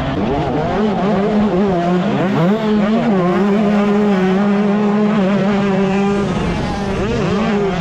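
125cc two-stroke motocross bike engine running hard: its pitch shifts up about two seconds in, holds steady at high revs for a few seconds, then drops and climbs again near the end as the throttle is rolled off and reopened.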